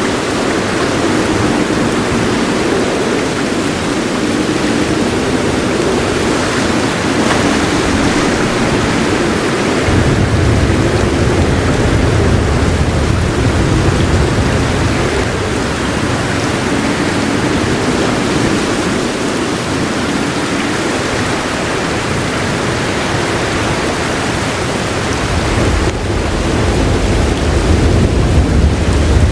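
Heavy rain falling in a steady hiss, with a soft, low roll of thunder rumbling under it about a third of the way in and again near the end.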